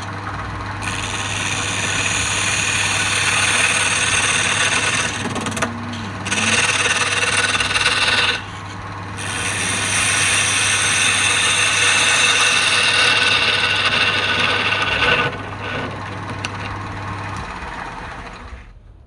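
Wood lathe running with a tool scraping the spinning wood, the scraping breaking off briefly twice as the tool lifts away. A steady motor hum lies underneath and stops near the end as the scraping dies away.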